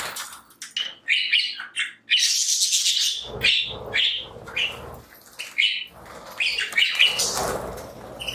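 A flock of budgies chirping and chattering in quick short calls, with several louder noisy bursts in between.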